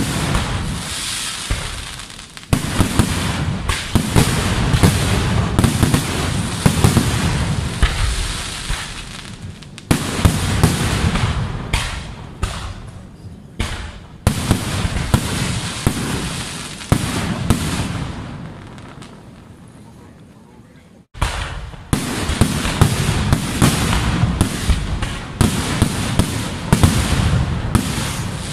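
Temple fireworks display (vedikkettu): aerial shells bursting in dense, rapid volleys of bangs and crackling. The bangs come in several waves, each starting suddenly and dying away, with a brief lull about two-thirds of the way through.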